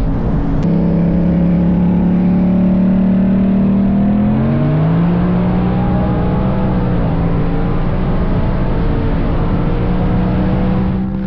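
Supercharged or twin-turbo V8 sports car at full throttle in a 60-160 mph roll race, its engine running hard with a steady pitch that steps up about four to five seconds in and then holds, easing off near the end.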